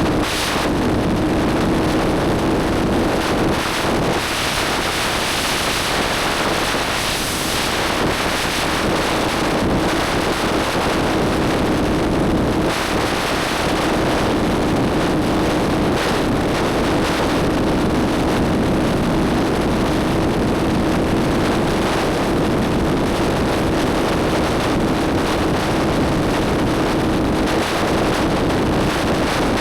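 Motorcycle engine running at a steady cruise, its note holding at one pitch, under heavy wind rushing over the microphone.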